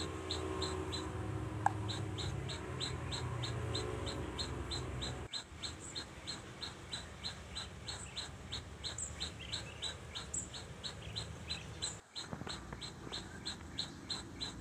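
A small bird chirping over and over, about three to four short high chirps a second, with a low rumble underneath for the first five seconds.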